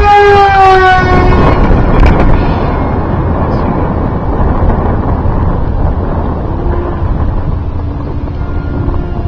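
Electric RC foam jet's brushless motor and 6x4 propeller whining loudly at full throttle as it makes a fast pass, the pitch dropping as it goes by. It then fades to a distant hum.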